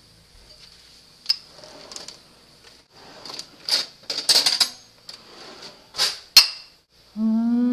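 A string of irregular sharp knocks and clattering hits, the last two about a second in from the end being the loudest. Near the end a loud, slowly rising pitched tone begins.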